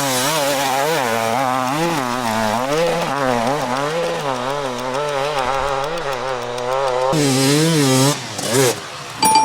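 Motorcycle engine revving up and down in quick surges as the rear wheel spins, searching for grip on the climb. Near the end the revs drop away, with one short blip of throttle.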